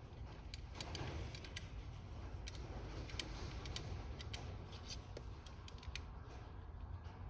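Irregular light metallic clicks and taps from tools and parts being handled while the fuel rail is refitted to a carburetor, over a steady low hum.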